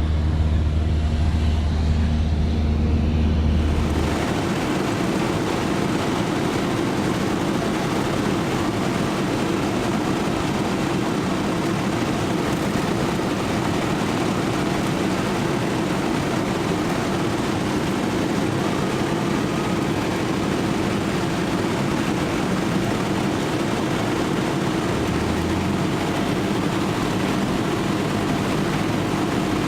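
Cessna 172S Skyhawk's four-cylinder Lycoming engine and propeller droning steadily in flight. About four seconds in, the deep low hum drops away and a broader, rushing drone carries on.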